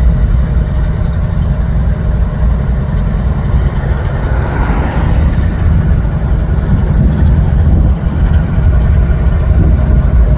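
Freight train passing: a loud, steady, low rumble with a faint engine-like drone, and a brief swell of higher-pitched rolling noise about halfway through.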